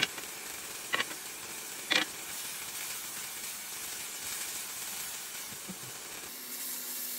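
Chicken cubes sizzling in their own juices in a pot, a steady hiss, with three light taps about a second apart near the start.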